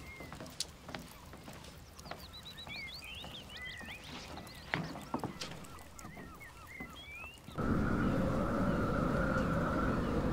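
Birds chirping and calling in quick, short rising notes, with a few light clicks. About three-quarters of the way through, this cuts off suddenly to a louder, steady low rumble with a held high hum over it.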